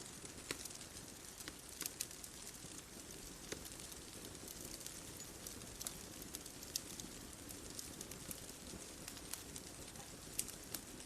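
Wood fire crackling: sharp pops and snaps at irregular intervals over a soft steady hiss of burning.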